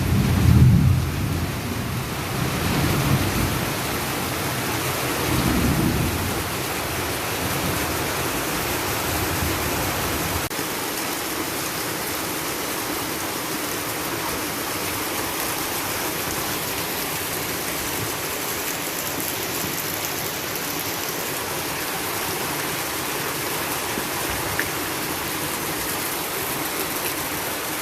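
Heavy rain pouring down in a steady hiss during a rain-and-wind storm. Low rumbles come and go during the first few seconds, then die away, leaving just the rain.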